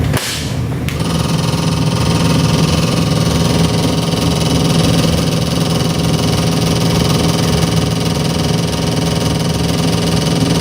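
Chevy 350 small-block V8 crate engine (375 hp build) idling steadily, after a brief rushing noise in the first second.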